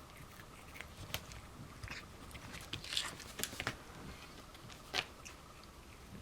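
Irregular soft clicks and crunches in a small room, the clearest about three and five seconds in.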